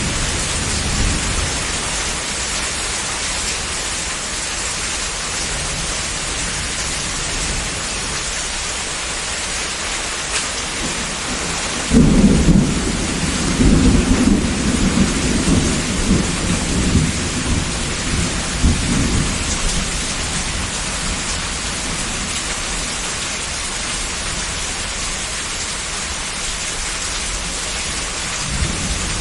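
Heavy steady rain pouring down, with a roll of thunder breaking in suddenly near the middle and rumbling on in waves for several seconds before fading back under the rain.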